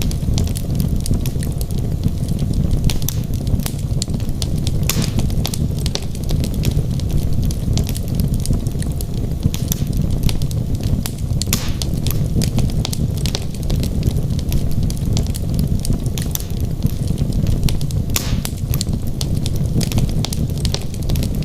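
Wood fire in a fireplace burning steadily, with a low rumble of the flames and frequent sharp crackles and pops from the burning logs.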